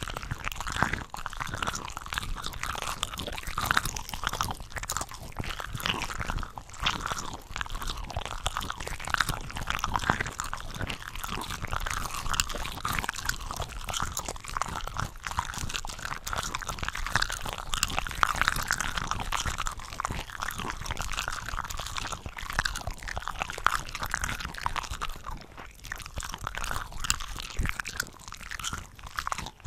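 Close-miked eating of cooked shrimp from a shrimp cocktail ring, several chewing tracks layered over one another, so bites and chews overlap into dense, continuous crunching.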